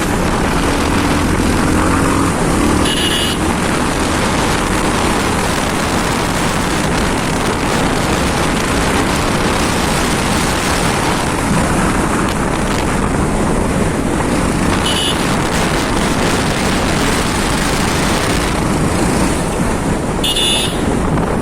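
A 220 cc motorcycle under way: steady wind rush on the microphone over the running engine. Three brief high-pitched beeps sound about three seconds in, near the middle and near the end.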